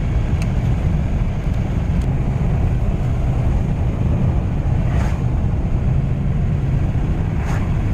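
Steady low road and engine rumble inside a moving van on a winter road, with two faint soft swishes in the second half.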